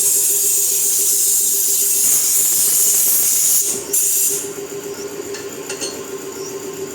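A loud, high-pitched hiss of escaping air or steam lasting about four and a half seconds, then cutting off, over a steady hum from a machine.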